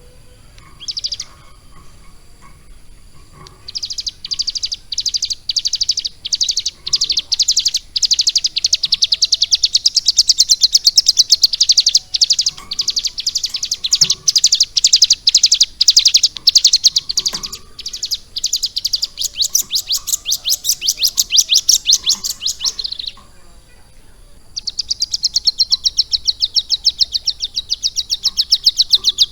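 Bar-winged prinia (ciblek gunung) singing a fast, chattering song of rapid high notes, in short bursts at first and then a long unbroken run, stopping briefly and starting again near the end. Its song is filled in with lovebird phrases.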